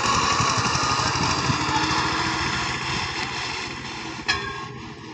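Eicher 485 tractor's diesel engine running steadily with a fast, even pulse, gradually getting quieter, with a single sharp click about four seconds in.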